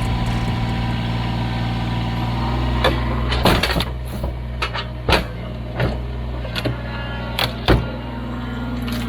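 Kubota BX23s compact tractor's three-cylinder diesel running steadily, with a string of sharp knocks and clanks from about three seconds in until near the end.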